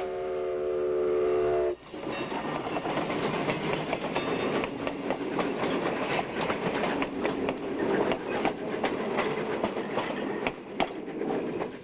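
Steam locomotive whistle blowing a steady chord of several notes, cutting off suddenly about two seconds in. Then the steady clatter of a train rolling along the track, wheels clicking irregularly over the rails.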